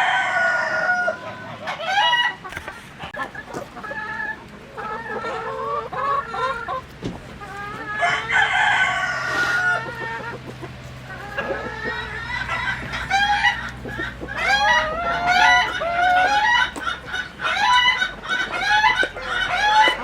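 A flock of chickens clucking continuously, many calls overlapping, with a rooster crowing near the start and again about halfway through.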